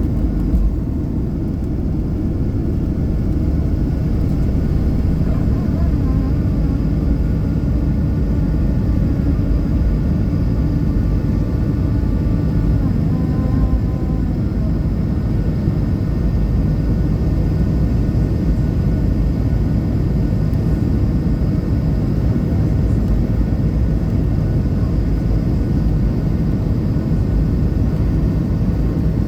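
Airplane taking off: a steady, loud rumble of engines and air.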